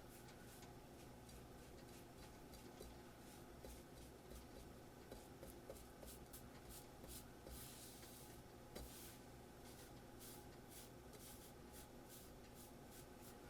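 Near silence: faint scratching and small clicks, like light handling or work at a bench, over a low steady hum.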